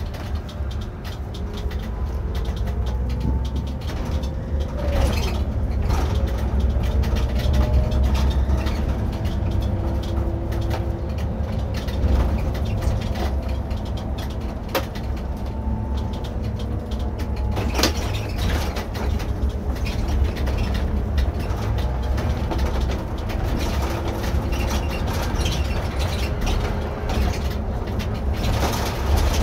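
Irisbus Récréo II coach driving, heard from the driver's seat: a steady low engine drone with faint whines that rise and fall as the speed and gears change. A few sharp knocks and rattles from the cab come through, the loudest about 18 seconds in.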